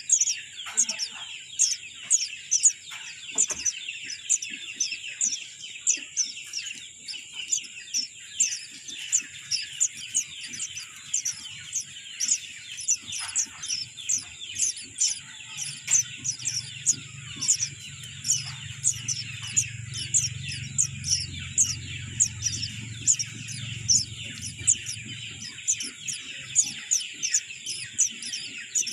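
Birds chirping: short, sharp, high chirps repeated about twice a second, over a steady high-pitched chorus in the background.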